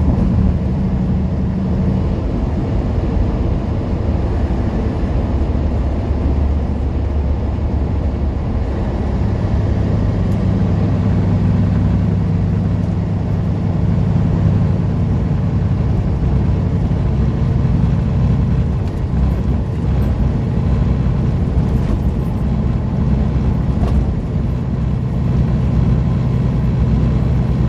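Semi truck's diesel engine and road noise heard from inside the cab, running steadily while driving. The engine note shifts about ten seconds in.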